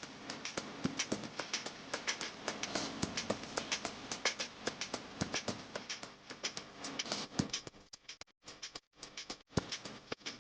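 Rapid, irregular small taps and clicks, several a second, broken by a few brief silent gaps near the end.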